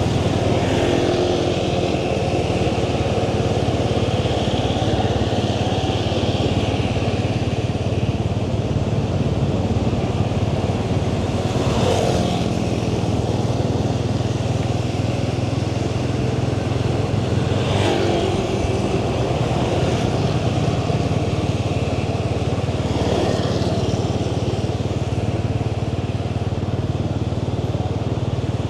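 Motorbike engine running steadily at cruising speed, with road and wind noise, and a few brief swells along the way.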